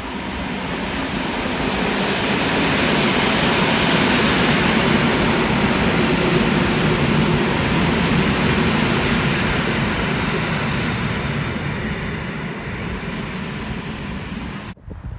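Older electric multiple unit commuter train passing along the platform: a broad rumble of wheels on rails that builds over the first few seconds, peaks as the train draws alongside, and fades as it moves away. The sound cuts off suddenly near the end.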